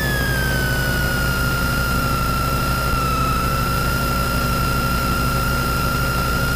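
Mini rally car's engine idling, heard from inside the cabin: a steady low drone with a high whine on top that glides down and settles to a steady pitch about a second in as the revs fall back to idle.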